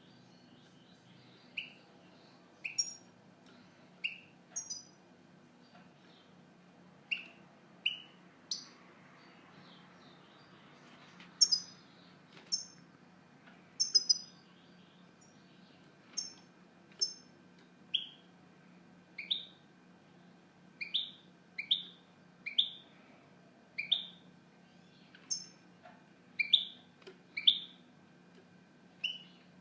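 European goldfinch calling: a series of short chirps, each a quick falling note, some doubled or topped with a higher note, coming every second or so and more often towards the end.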